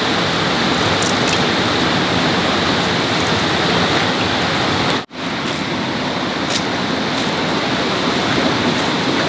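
Steady, loud rushing noise that cuts out sharply for an instant about five seconds in, then carries on.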